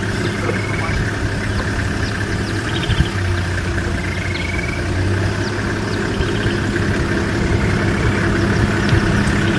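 A vehicle engine idling with a steady hum, a few short high chirps sounding over it.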